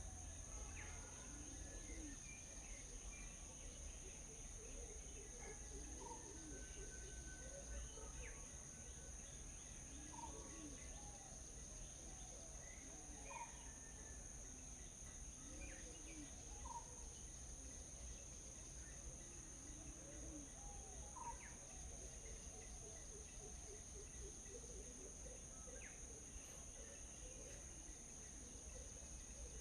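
Faint birds chirping and calling at scattered intervals, over a steady high-pitched insect drone.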